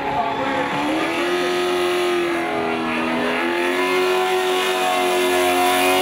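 Drift-built Nissan 350Z engine revving hard while the car slides sideways on spinning rear tyres. The pitch climbs about a second in, dips briefly around the middle, then holds high and steady.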